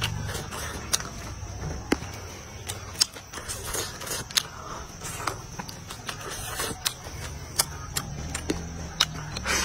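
Chewing a bite of salt-baked chicken leg: wet mouth clicks and smacks at irregular intervals.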